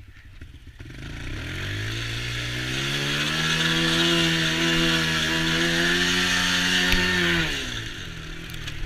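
Small youth ATV engine pulling away: its pitch rises over the first couple of seconds, holds at high revs, then falls off as the throttle is released near the end.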